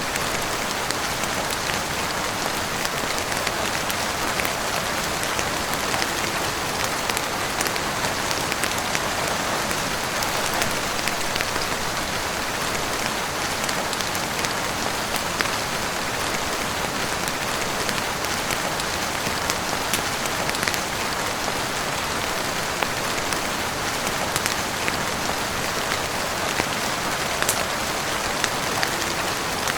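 Steady heavy rain falling on a roof and windows, an even hiss sprinkled with many sharp, scattered ticks.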